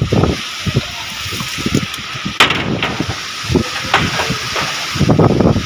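Strong storm wind gusting and buffeting the microphone, a loud rushing noise with irregular low thumps, and one sharp crack about two and a half seconds in.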